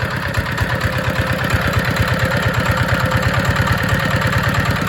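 ZR185 single-cylinder, water-cooled, direct-injection diesel engine running steadily with an even, fast chugging beat.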